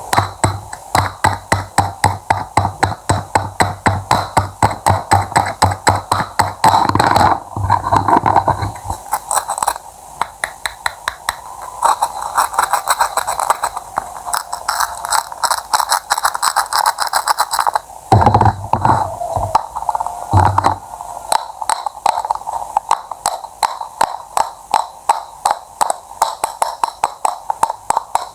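Quick, even knife cuts, about three to four strokes a second, over background music.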